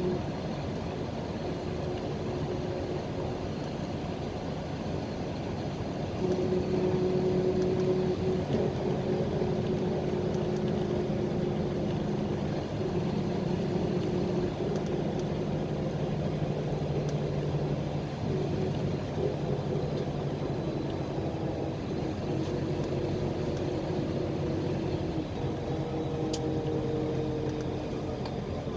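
Engine drone and road noise inside a moving PAZ-320405-04 Vector Next bus. The engine note gets louder about six seconds in, sinks slowly over the next several seconds, and shifts again near the end.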